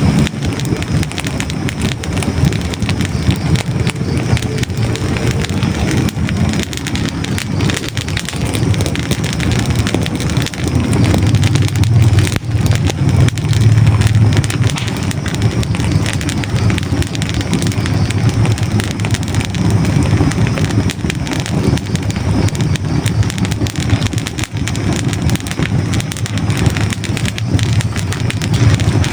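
Hardwood logs burning in a fireplace: a steady low rumble of flames with many quick crackles and pops from the wood.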